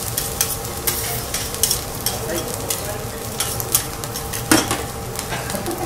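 Egg fried rice sizzling on a steel teppanyaki griddle, with a metal spatula scraping and tapping the hot plate in irregular clicks. One louder clack comes about four and a half seconds in.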